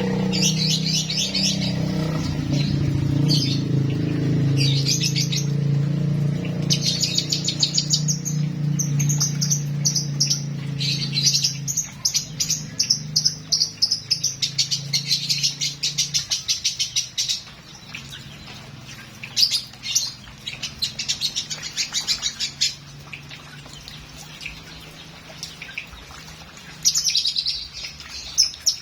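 Lovebird singing: long runs of rapid, high-pitched chattering chirps, broken by short pauses. A steady low hum sits underneath, loud at first and much fainter after about twelve seconds.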